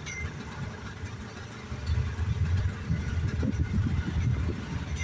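Engines of cars and trucks idling and creeping along in a slow line of traffic, a low rumble that grows louder from about two seconds in.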